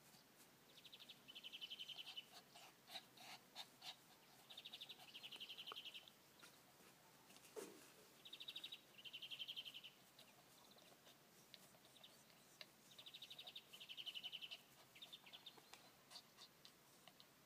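A songbird singing the same short phrase four times, about every four seconds: a fast trill followed by a slightly lower, denser run.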